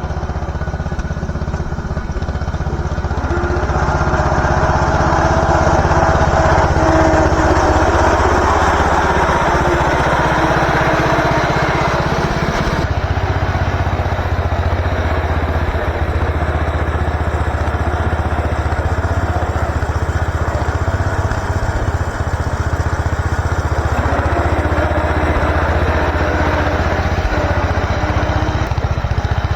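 MTD garden tractor engine running steadily, growing louder about four seconds in.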